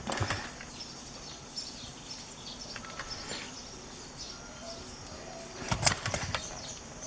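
Low background noise broken by two short clusters of sharp clicks and knocks, one at the very start and a louder one about six seconds in.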